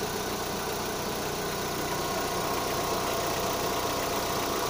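Opel Zafira A's 1.8 X18XE1 petrol engine idling steadily, fitted with a used replacement intake manifold: the owner says a slight manifold knock is still there but fades quickly.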